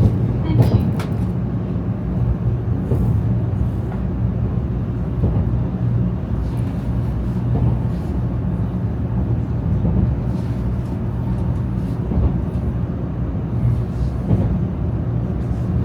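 Steady low rumble and hiss of a Shinkansen bullet train running, heard from inside the passenger cabin, with a few faint clicks about a second in.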